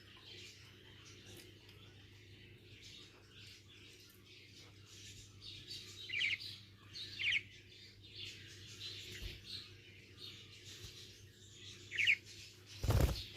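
Budgerigar twittering: a soft, continuous warbling chatter with a few sharper quick chirps mixed in. A short, loud thump comes near the end.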